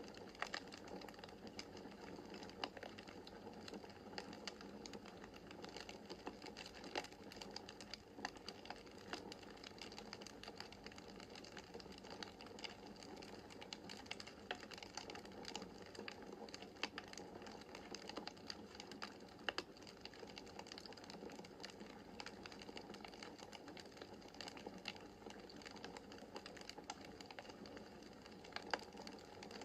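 Wood fire crackling in a fireplace: a soft steady hiss with many small irregular crackles and an occasional sharper pop.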